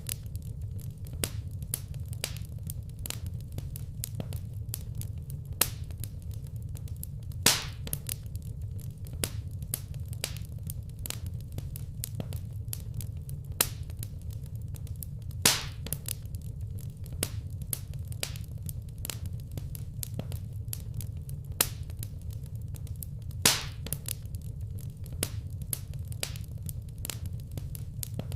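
Wood fire crackling in a fireplace: a steady stream of small snaps and clicks over a low rumble, with three louder pops spaced several seconds apart.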